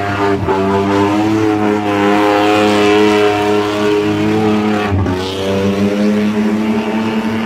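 Engine of an extreme 4x4 off-road prototype running hard at high revs as it charges through mud, a loud steady note that rises slightly, breaking off briefly twice.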